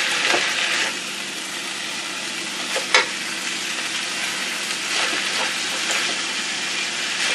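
Rice and vegetables sizzling steadily in a hot stainless steel wok as they are stir-fried with a wooden spatula, with a sharp knock of the spatula against the pan about three seconds in and lighter ones here and there.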